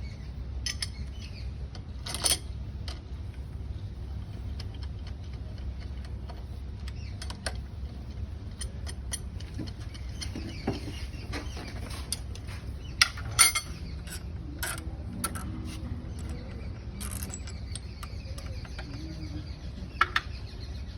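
Scattered metallic clicks and clinks of hand tools and engine parts being handled during an engine rebuild, with a few sharper knocks about 2 seconds in, around 13 seconds and near the end, over a steady low hum.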